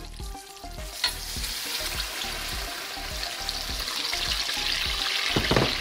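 Semolina poured into a pan of hot oil and sugar syrup, which sizzles loudly as the grains hit it. There is a sharp click about a second in, the sizzling builds and fills out, and there is a brief low knock near the end.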